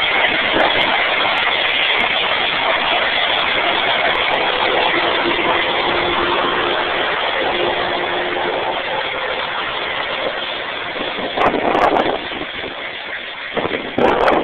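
Steady rolling noise of a long freight train of loaded coal cars passing close by, with a faint steady tone in the middle and two short louder bursts near the end.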